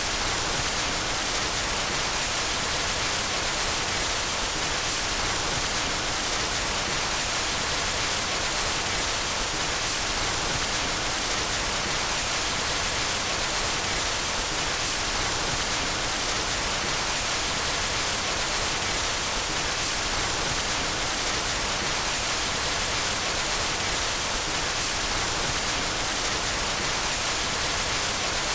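Steady white noise: a constant, even hiss that does not change.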